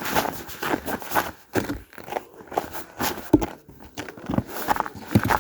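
Footsteps of people walking along a woodland trail, about two steps a second, each a short scuffing crunch.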